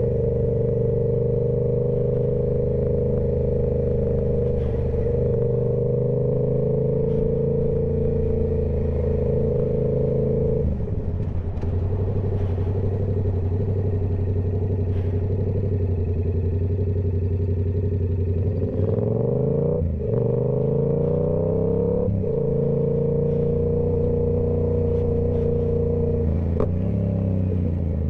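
Yamaha YZF-R7 parallel-twin engine through a TOCE full exhaust system, running at steady revs under way. About ten seconds in the revs drop. Around two-thirds of the way through they climb twice in quick succession, like accelerating through gear changes, then hold steady again and ease off near the end.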